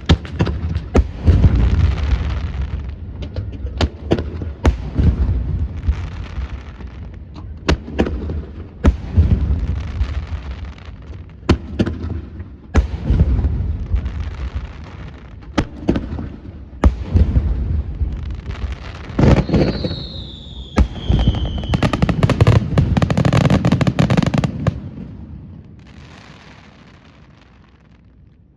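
Fireworks display: aerial shells bursting in quick succession, with sharp cracks over deep rumbling booms. A descending whistle comes about twenty seconds in, then a dense barrage before the booms die away near the end.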